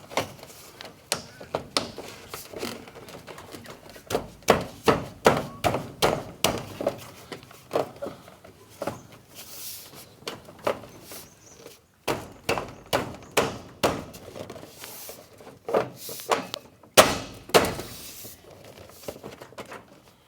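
An irregular run of knocks and thuds as a downpipe bend is pushed and tapped into place on the gutter's outlet, with the knocks coming in clusters.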